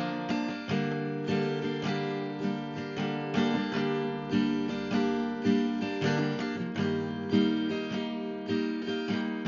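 Background music: a strummed acoustic guitar playing steady chords with regular plucked notes.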